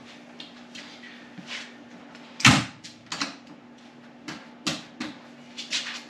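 A string of irregular knocks and clunks from parts being handled while a motorcycle seat is fitted, the loudest about two and a half seconds in, over a steady low hum.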